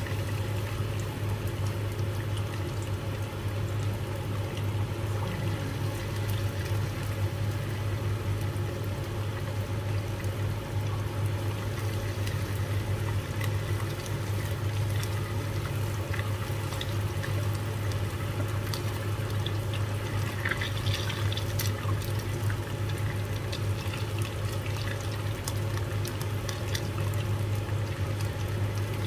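Cornstarch-coated chicken wings sizzling and crackling as they shallow-fry in hot oil, over a steady low hum.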